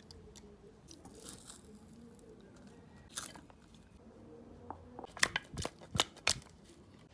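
A few sharp clicks and knocks: one about three seconds in, then a quick cluster of louder ones about five to six seconds in.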